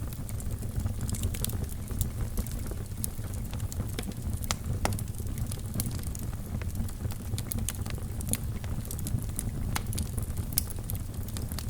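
Wood fire burning in a fireplace: a steady low rumble of flames under frequent, irregular crackles and pops.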